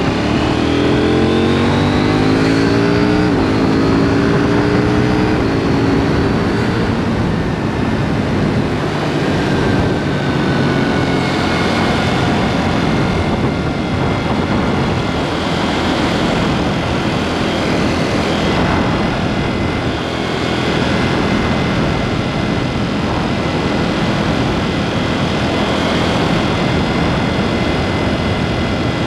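KTM Duke 790's parallel-twin engine through an aftermarket SpeedPro Cobra SPX exhaust, accelerating hard through about three quick upshifts in the first few seconds. It then runs on at a steady cruise under a constant rush of road and wind noise.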